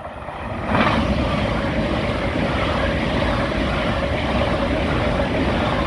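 LNER Class 800 Azuma passing through the station at speed without stopping: a loud rush of air and wheel noise that swells in about a second in and holds, with one steady whine above it.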